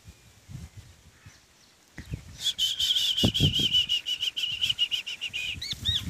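A bird singing a fast, wavering trill that starts about two and a half seconds in and lasts about three seconds, followed by a few short rising-and-falling chirps near the end. A few low thumps come about halfway through.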